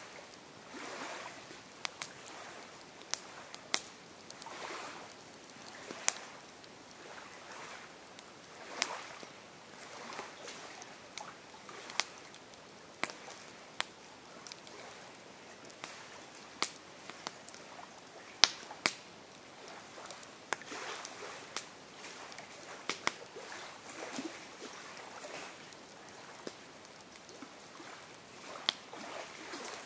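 Campfire crackling: frequent sharp pops and snaps of burning wood, irregular and a second or so apart, over a soft rushing hiss of flames that swells and fades.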